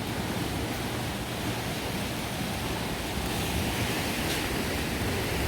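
Steady rushing noise with no distinct events, slowly growing a little louder.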